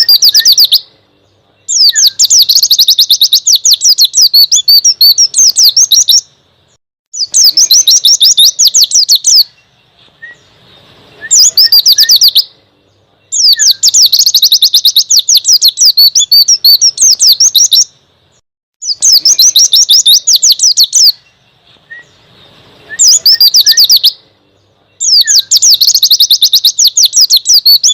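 Small songbird singing loud phrases of rapid, high chirps, many notes a second. Each phrase lasts from about one to four seconds, with pauses of about a second between them, repeated over and over.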